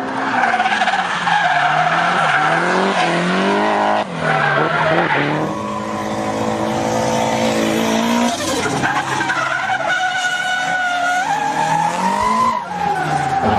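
Performance car engine revving hard, its pitch rising and falling again and again, with tyres squealing as the car slides in a drift. The sound changes abruptly about five seconds in.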